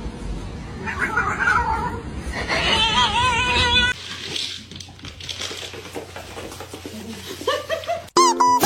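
A cat yowling in a long, wavering call in the first half, with a fainter rising meow near the end.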